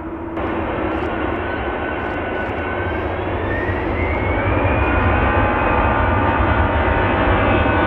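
Jet airliner's engines running loud, with a low rumble and a whine that rises in pitch over a few seconds, then holds steady as the sound grows louder.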